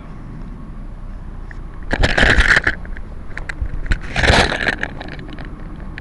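Distant police helicopter droning steadily in the background, cut by two loud rustling, scraping bursts of handling noise on the microphone, about two seconds in and again about four seconds in.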